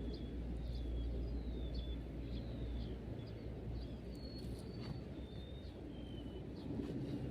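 Birds chirping: repeated short, high chirps, some sliding down in pitch, over a steady low rumble of outdoor background noise.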